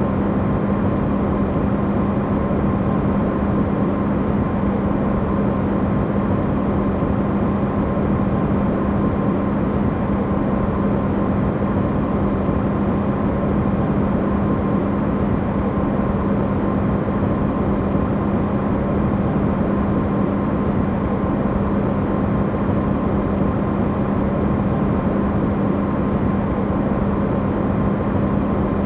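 Electrolux refrigerator's amplified running sound: a steady hum with a low drone and a faint higher tone, unchanging throughout.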